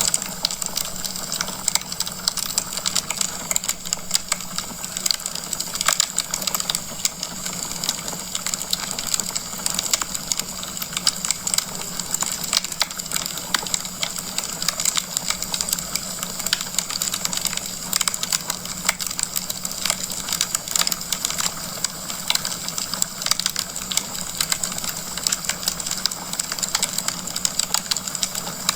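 Wood fire crackling in a fireplace: dense, irregular crackles and pops from burning logs over a steady hiss.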